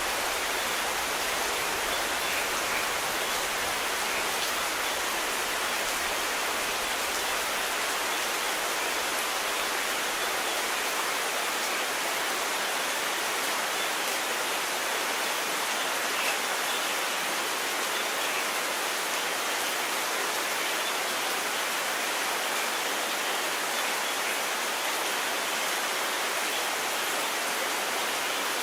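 Steady, even rainfall: a continuous hiss of rain with no thunder.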